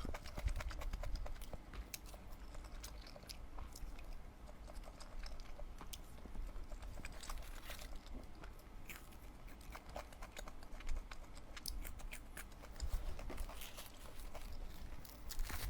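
Close-miked chewing and eating sounds from one person, with many small sharp clicks and smacks scattered throughout.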